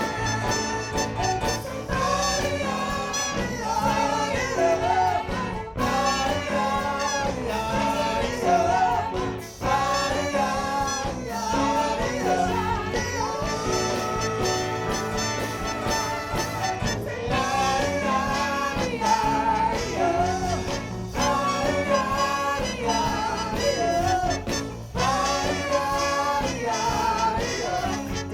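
Ten-piece soul band playing live music at a steady, full volume, with no lyrics picked out.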